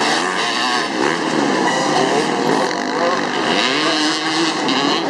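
Several dirt bike engines racing together, their pitch repeatedly rising and falling as they rev.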